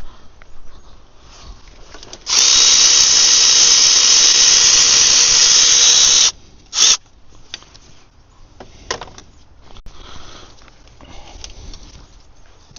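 A cordless power tool runs steadily for about four seconds, undoing a gearbox bolt, then gives a short blip about a second later.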